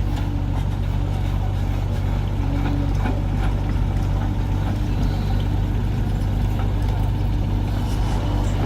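Heavy diesel engine of earth-moving or farm machinery running steadily, a low even drone.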